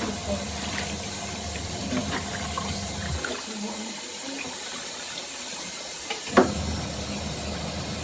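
Twin-tub portable washing machine running with water swishing. Its low motor hum cuts out about three seconds in, then starts again about three seconds later with a sharp clunk.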